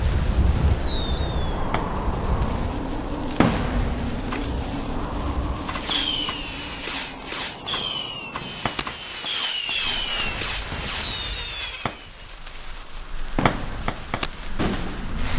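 Fireworks going off: sharp bangs and crackles over a low rumble, with a run of short, high, falling whistles through the middle.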